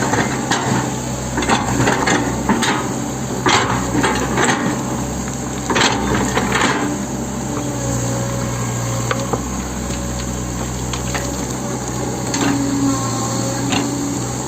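Hitachi 110M excavator at work: its diesel engine runs with a steady hum under repeated metallic clanks and knocks, most frequent in the first half.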